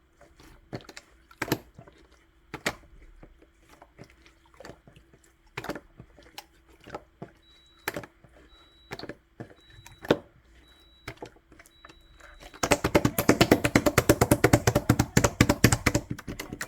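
Elmer's glue slime being played with by hand: scattered sticky clicks and pops, then from about twelve seconds in a loud, dense run of rapid clicking as it is worked quickly.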